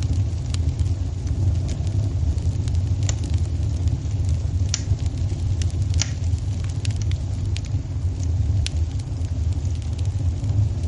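Wood fire in a fireplace crackling: scattered sharp pops and snaps at irregular intervals over a steady low rumble.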